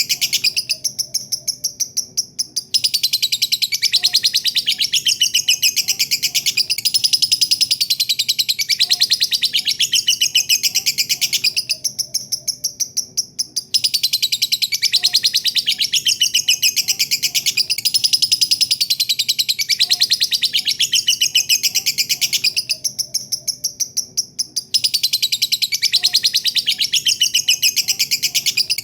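Lovebird's long 'ngekek' song: a rapid, shrill chattering string of chirps, held in long runs that break off for a short pause about every eleven seconds.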